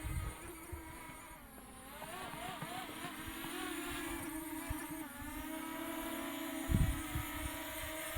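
Quadcopter drone's propellers whining steadily as it hovers close by, the pitch dipping and wavering as the motors adjust while it is brought in to land. Low thumps of wind on the microphone near the start and about two-thirds of the way in.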